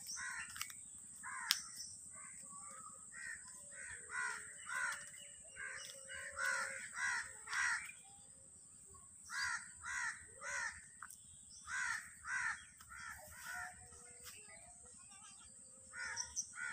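Birds calling: short calls repeated in runs of several, with a pause about eight seconds in, another run after it, and a few last calls near the end.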